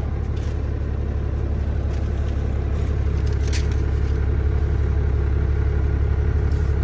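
Dodge pickup's 12-valve Cummins inline-six diesel running steadily, a low even rumble, with a light click about three and a half seconds in.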